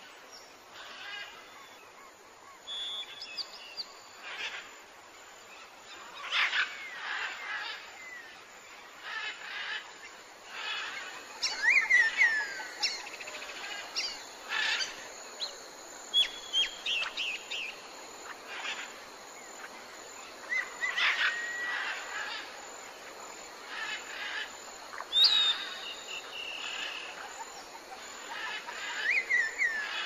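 Several birds calling, with short whistled notes and quick down-slurred chirps scattered irregularly throughout, over a steady background hiss.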